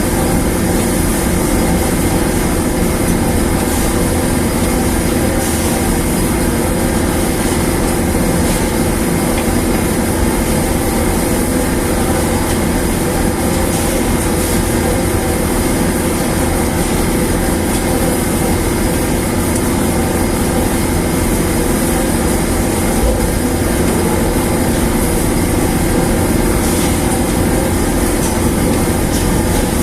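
Newly installed dryer machine running steadily: a constant loud mechanical hum with several steady tones over a noisy rush, unchanging throughout.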